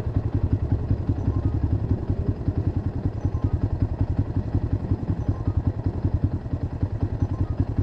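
A vehicle engine idling with a steady, rapid, even pulse.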